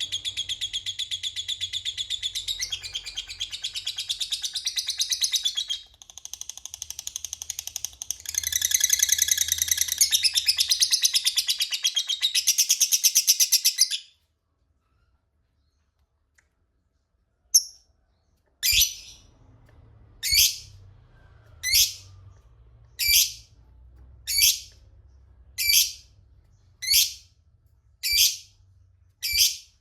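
Lovebird giving a long, very fast chattering trill, the 'ngekek panjang' prized in fighter lovebirds, with a short break near the middle; it stops abruptly. After a few seconds of silence, single sharp chirps, each falling in pitch, repeat evenly a little over a second apart.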